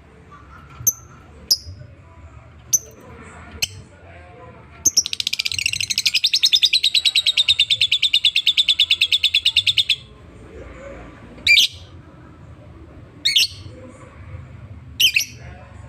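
Lovebird calling: a few sharp, high single chirps, then a rapid chattering trill of quickly repeated notes lasting about five seconds, followed by a few louder chirps.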